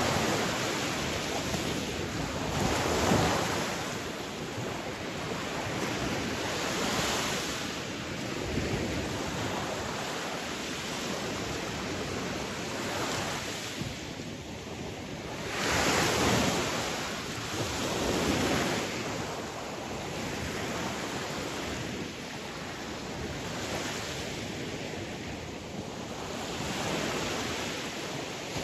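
Sea waves breaking and washing on a shore, a steady rush of surf that swells into louder breakers every few seconds, the biggest about three seconds in and around the middle. Some wind noise is mixed in.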